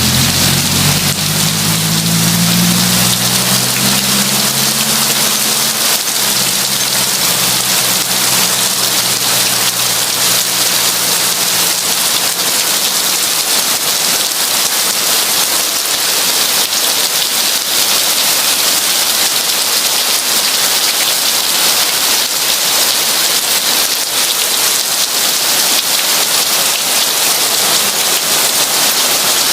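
Heavy rain falling in a steady, dense hiss. A low rumble fades away over the first several seconds.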